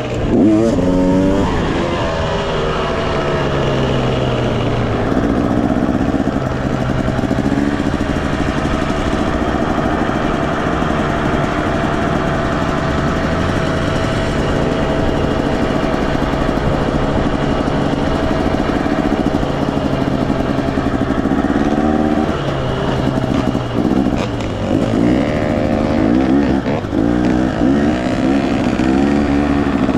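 Two-stroke engine of a 2018 Yamaha YZ250X dirt bike being ridden hard round a motocross track. The revs rise and fall quickly as the throttle is worked, held steadier through the middle, then swing up and down repeatedly again near the end.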